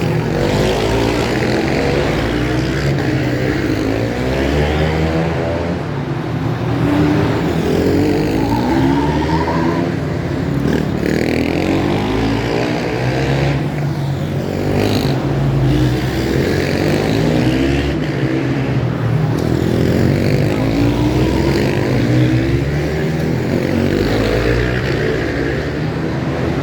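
Supermotard motorcycles racing, their engines revving up and falling back again and again through the gears.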